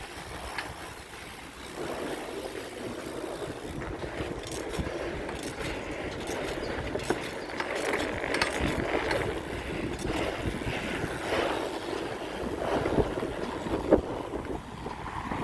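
Wind rushing over the microphone with rumbling road noise from a bicycle in motion, and a sharp knock near the end.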